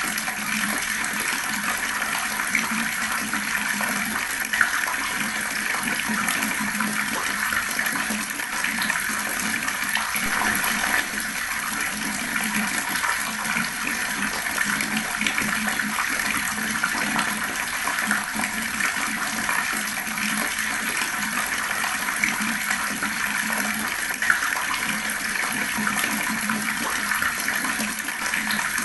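Water running fast in a steady, unbroken rush, like a strongly running flow pouring and splashing.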